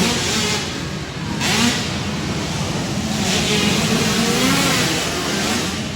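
65cc two-stroke dirt bike engines revving hard during a race, their pitch rising and falling as riders work the throttle and shift, with louder surges about a second in and again midway.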